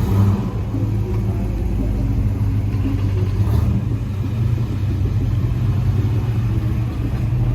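A car engine running steadily at low revs, a deep, even rumble.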